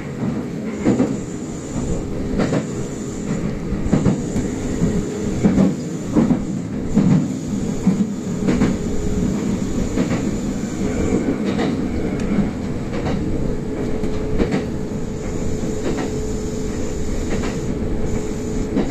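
Kintetsu express electric train running, heard from inside the front car: a steady rumble of wheels on rails with irregular sharp clicks as the wheels pass over rail joints, and a faint steady hum in places.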